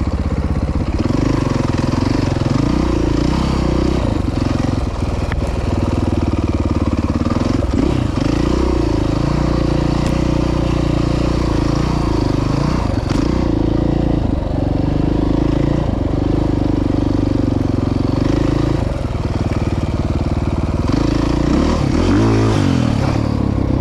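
Dirt bike engine running hard along a rough trail, its pitch rising and falling over and over as the throttle is opened and closed.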